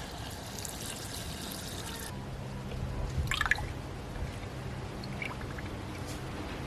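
Liquid pouring and trickling for about two seconds, then it stops abruptly and a steady low hum remains, with a few light clicks.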